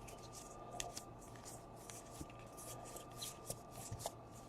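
Baseball trading cards being slid and flipped through a stack by hand: faint, repeated soft swishes with a few light clicks, over a steady faint electrical hum.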